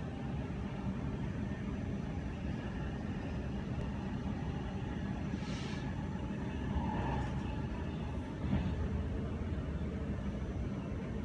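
Steady low rumble of a moving passenger train heard from inside the carriage, with a brief hiss about halfway through.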